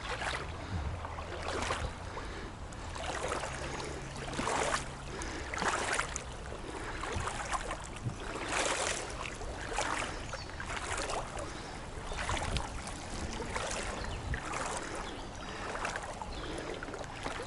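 Someone wading through shallow river water, with a splashing slosh roughly every second as each foot moves through it.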